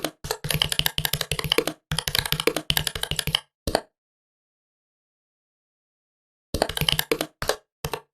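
Rapid typing on a laptop keyboard, quick runs of key clicks. The typing stops for about two and a half seconds near the middle, then resumes.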